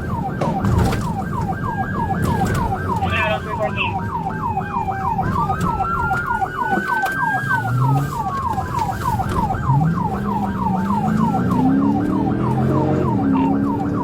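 Police car siren on a fast yelp, sweeping up and down about three or four times a second, with a second siren making a slow wail over it. A vehicle engine runs underneath, rising in pitch near the end.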